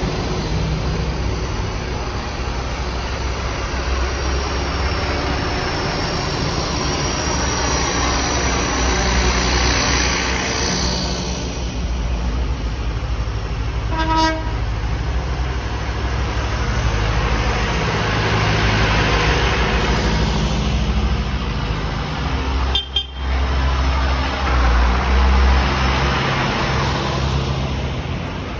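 Tractors driving past one after another, their engines running with a steady low beat that swells as each one passes. A short horn toot sounds about halfway through.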